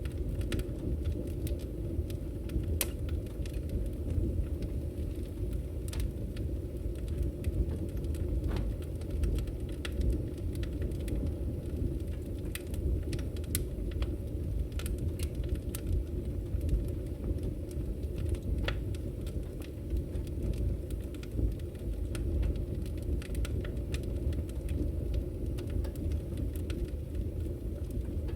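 Wood fire burning in a fireplace: a steady low rush of flames with scattered, irregular crackles and pops from the burning firewood.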